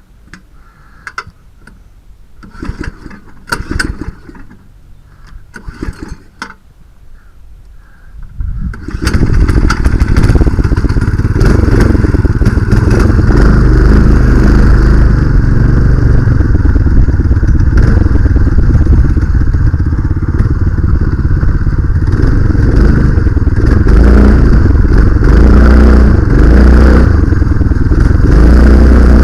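Homemade minibike with a Honda-clone single-cylinder four-stroke engine and a CVT torque converter. A few seconds of light clattering and knocks come first, then about nine seconds in the engine starts running loud and steady as the bike is ridden.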